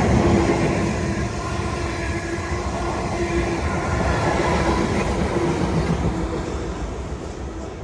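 A train running along the track, its rumble and rail noise fading away toward the end.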